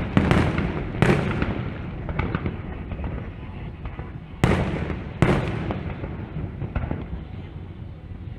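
Aerial fireworks shells bursting: four loud booms, two in the first second and two more about four and five seconds in. Each boom trails off in a rumbling echo, with smaller crackling pops in between.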